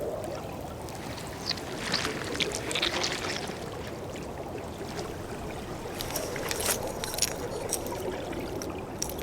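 Underwater ambience: a steady low watery wash with scattered faint clicks and crackles coming and going.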